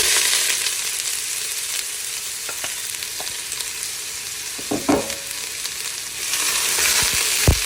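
Chopped onions sizzling in hot oil in a frying pan, starting suddenly as they go in. The sizzle runs on steadily and swells near the end, with a few knocks of a utensil on the pan about five seconds in and again just before the end.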